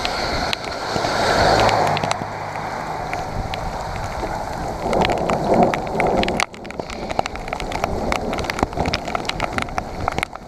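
Steady rain, with many sharp clicks of drops hitting close to the microphone.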